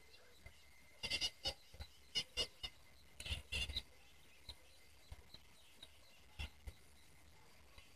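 An animal chewing and tearing grass: a run of short, crisp crunching bites in the first half, then only occasional faint ones.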